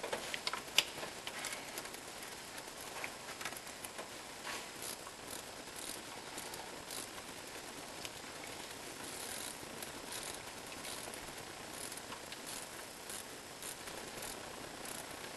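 Irregular light clicks and clinks of hand tools and metal parts being worked on an engine while the water pump is taken off, with a cluster of clicks and one sharp knock in the first second.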